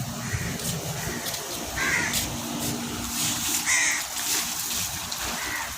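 A crow cawing, three harsh calls spaced a little under two seconds apart.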